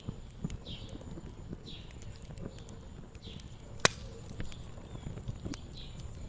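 Wood fire crackling, with irregular sharp pops and one loud snap just before the four-second mark. Faint short bird chirps repeat in the background.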